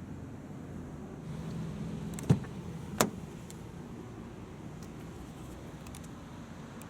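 Two sharp clunks about two-thirds of a second apart from a 2018 Land Rover Discovery, over a low steady rumble, with a few faint ticks after.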